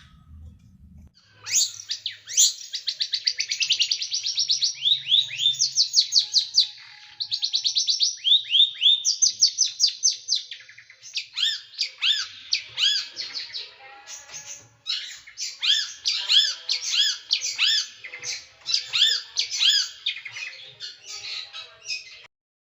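A small songbird singing fast, sharp trills of high, down-slurred notes, the rapid 'shooting' phrases (tembakan) prized in tutor songs for cage birds. From about halfway the notes come as separate arched chirps in quick groups, and the song cuts off sharply near the end.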